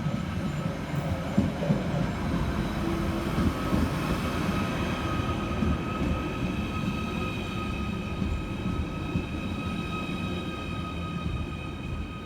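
Merseyrail Class 777 electric train running through the platform at the station, a continuous rumble with steady high-pitched whines over it.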